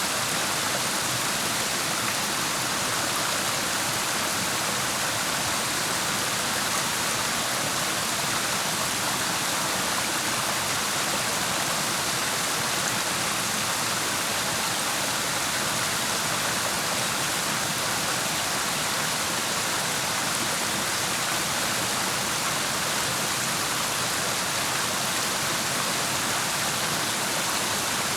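Clear mountain stream rushing over rocks, a steady, unbroken sound of flowing water.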